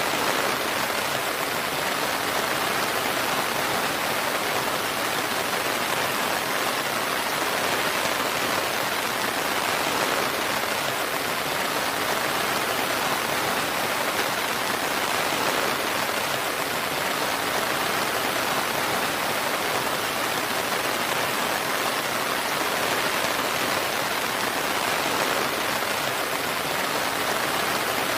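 Steady, even rain falling continuously, a dense hiss of drops with no distinct single strikes and no thunder.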